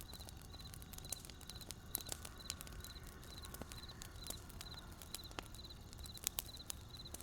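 Wood campfire crackling with irregular sharp pops over a low flame rumble, while crickets chirp steadily in short pulsed chirps about twice a second.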